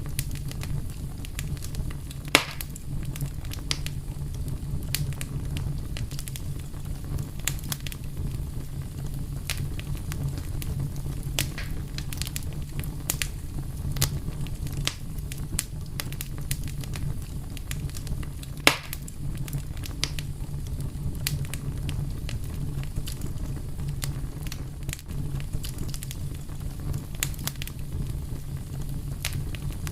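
Fire crackling: scattered sharp crackles over a steady low rumble, with two louder pops, one about two seconds in and one a little past the middle.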